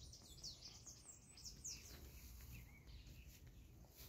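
Faint bird chirps: a quick run of short high calls sweeping downward in the first two seconds, then a few scattered ones, over a low background rumble.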